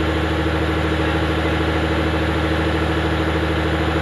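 Concrete pump truck's diesel engine running steadily at a constant speed.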